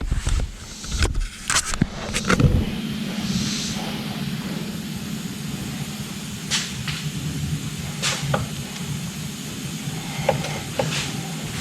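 A few sharp knocks and clanks in the first couple of seconds, then a steady low engine-like hum with scattered clicks over it.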